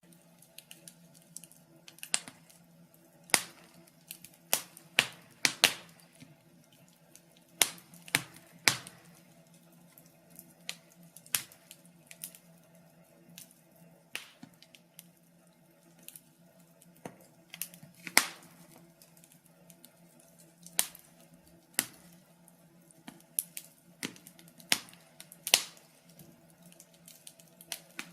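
Wood fire crackling: irregular sharp pops and snaps, some loud and some faint, over a faint steady low hum.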